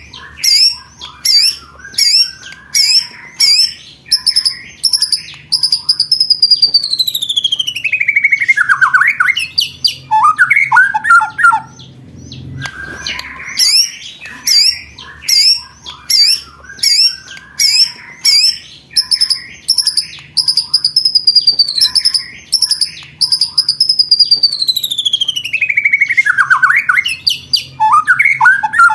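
Songbird song on a looped training recording: a run of sharp, high repeated notes about two a second, then a long note gliding down in pitch, ending in a burst of lower rattling notes. The same phrase starts over about halfway through.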